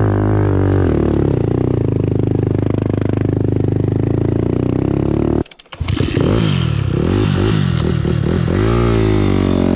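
Dirt bike engine running loud and steady, cutting out for a moment about halfway, then revving up and down several times in quick succession.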